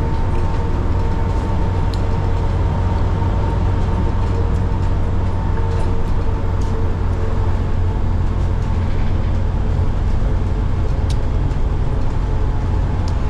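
Interior of a city bus under way: a steady low engine and road rumble with a faint constant whine above it and a few light rattling ticks.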